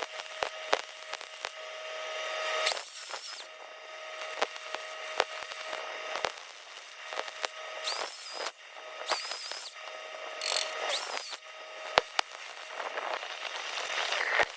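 Electric welding arc crackling and spitting in an irregular stream of small pops, over a steady machine hum, with several brief louder hissing patches.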